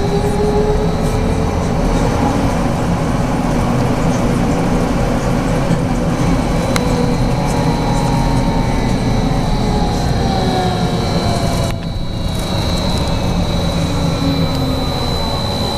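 Inside a BKM 43300D trolleybus under way: a steady low rumble of the running gear, with the electric traction drive's whine gliding slowly up and down in pitch as the speed changes, and a thin steady high whine. About twelve seconds in, the higher sounds drop out for a moment.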